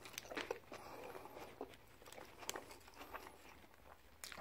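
Faint chewing of a mouthful of burger, with a few soft clicks and crackles scattered through it.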